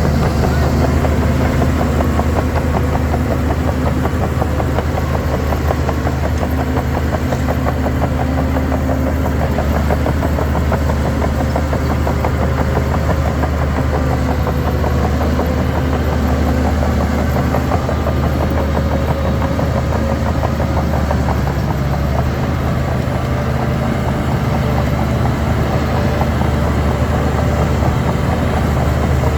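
Heavy diesel engine of a Shantui DH17 C3 bulldozer running steadily at a constant speed. It comes in abruptly at the start.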